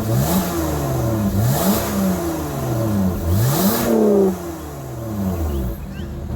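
Lotus Evora's Toyota-derived 3.5-litre V6 revved in several sharp blips through its exhaust. Each time the revs climb quickly and then fall back slowly, settling lower near the end.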